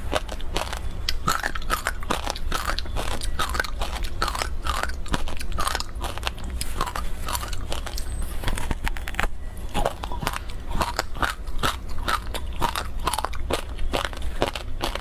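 Close-miked biting and chewing of frozen passion fruit ice: a dense run of sharp, irregular crunches and crackles as the ice is bitten and crushed between the teeth, over a steady low hum.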